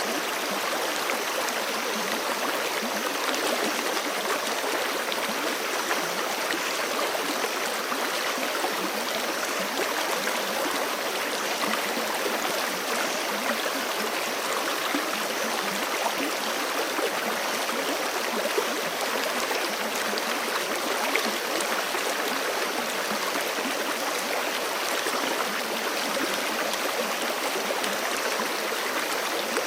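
Forest creek rushing and gurgling over rocks, a steady, even flow of water.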